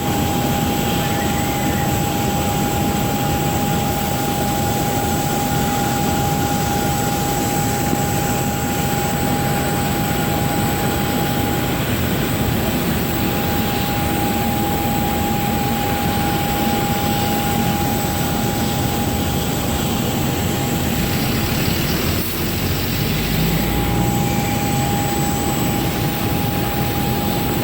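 Steady jet aircraft noise: an even, loud roar with a constant high whine running through it.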